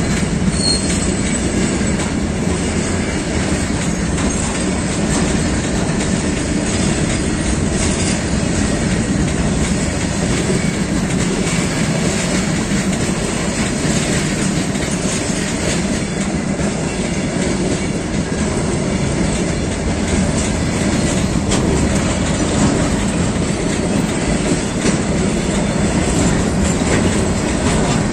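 Goods train's steel wagons rolling past close by: a steady rumble of wheels on rail, with clicks as the wheels cross the rail joints.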